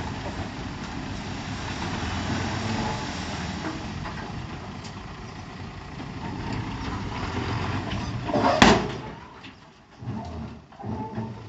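Heavy diesel earthmoving machinery running steadily, with one sharp, loud bang about three-quarters of the way through, after which the engine noise drops and becomes uneven.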